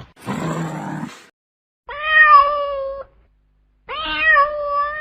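Domestic cat meowing twice, each meow about a second long with a steady pitch. It is preceded in the first second by a short rough, noisy animal sound.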